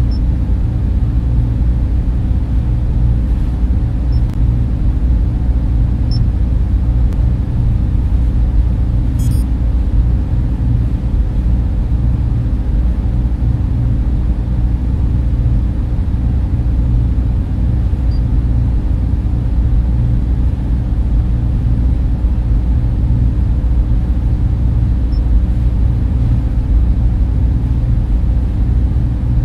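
Steady, unchanging drone of data center server fans and cooling equipment, mostly deep and low-pitched, with a faint steady hum-tone above it.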